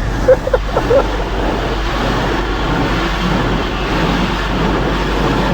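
Automatic car wash working over the car, a steady rushing of water and machinery heard from inside the car's cabin. A few short vocal cries cut in during the first second.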